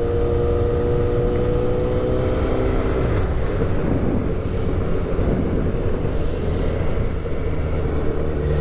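Motorcycle engine running while riding at steady speed. Its note holds and creeps slightly higher for the first few seconds, then sinks under an even rushing noise from the ride, and comes back near the end.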